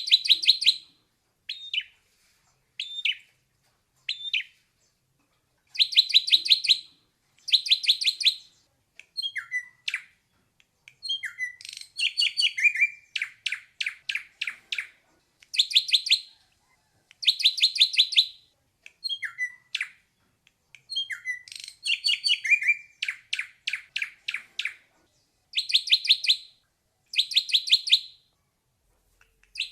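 Ashy drongo singing: short bursts of rapid, evenly spaced notes, each under a second, alternating with single slurred whistled notes, with brief pauses between phrases.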